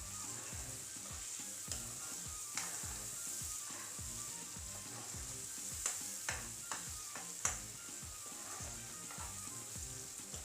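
Onion-garlic-chilli masala paste sizzling steadily in oil in a pan as it is stirred, with a spoon clicking and scraping against the pan several times, the sharpest knocks a little past the middle. The oil has separated and risen to the top: the masala is well fried.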